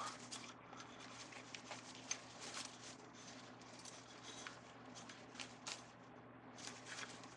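Faint, irregular rustling and crinkling of ribbon and deco mesh being handled and worked onto a wreath, with short scratchy strokes, over a steady low hum.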